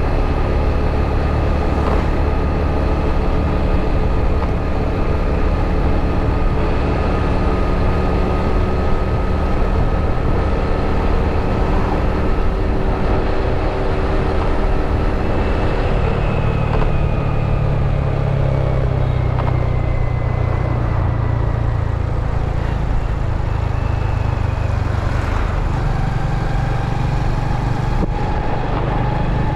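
Motorbike engine running under way, with a steady rush of road and wind noise. The engine note changes about halfway through and again near the end.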